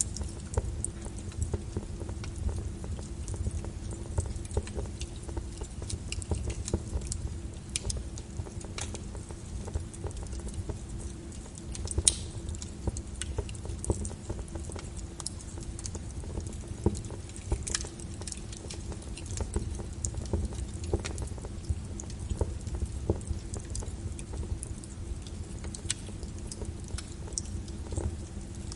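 Wood fire crackling in a fireplace: irregular sharp pops and snaps over a steady low rumble of the burning, with one louder pop about twelve seconds in.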